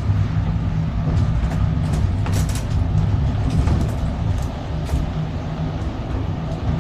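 Steady low rumble of a moving vehicle, with a few brief clicks and rattles.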